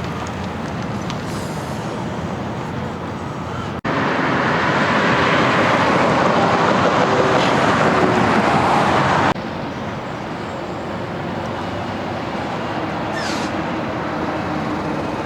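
Highway traffic noise from big rigs passing, a steady rush of tyres and engines. It breaks off abruptly twice, where clips are spliced together, and is loudest and brightest between about four and nine seconds in.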